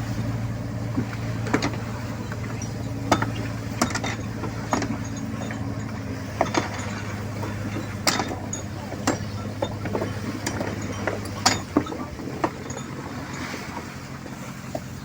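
A fishing boat's engine runs steadily under irregular sharp metallic clinks and knocks from gear on deck. The engine's hum changes about three-quarters of the way through.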